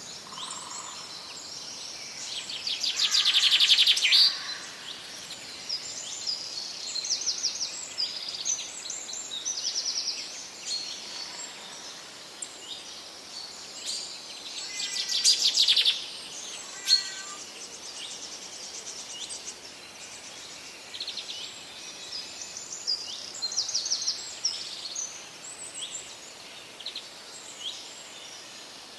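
Parrots calling: a steady run of short, high chirps, with two louder, harsh rasping screeches, one about three seconds in and one about halfway through.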